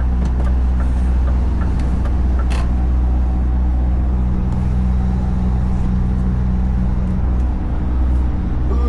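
Scania V8 diesel truck engine running steadily at low revs while the truck creeps through a tight turn, heard from the cab, with a few faint clicks.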